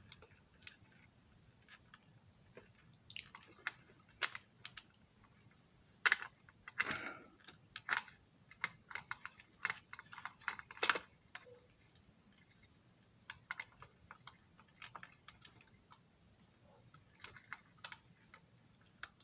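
Irregular light clicks and taps of small parts being handled while a fine wire with a small loop is worked into place on a model railroad passenger car. The clicks come thickest in the middle, then thin out.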